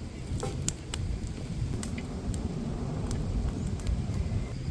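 Wood cooking fire crackling, with scattered sharp pops over a steady low rumble.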